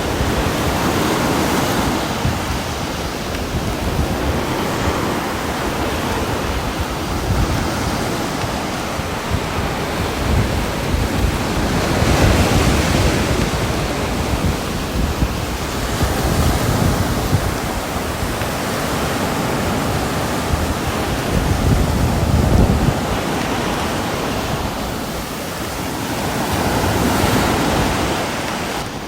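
Heavy rain ambience: a dense, steady hiss with a strong low rumble, swelling and easing every few seconds.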